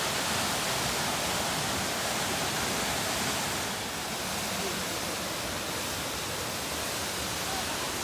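Steady rushing roar of a tall waterfall's falling water, dipping slightly in level about four seconds in.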